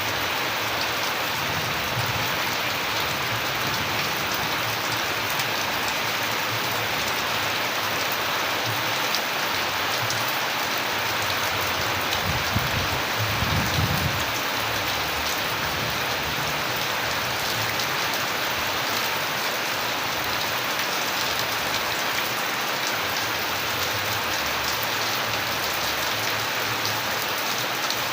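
Steady rain, a dense patter of many drops hitting a surface, with a brief low rumble about halfway through.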